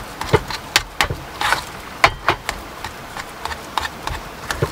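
Metal spoon mashing boiled potatoes in a small metal pot: a dozen or so irregular, sharp clinks and scrapes as the spoon strikes and drags against the pot.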